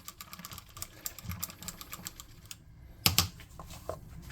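Rapid light clicking and tapping of small hard objects on a work table, then two loud sharp knocks about three seconds in.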